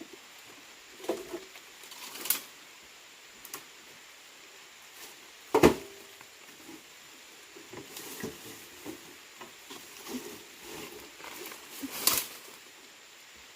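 Irregular knocks, clicks and rustling, with a sharp loud knock about five and a half seconds in and another near the end.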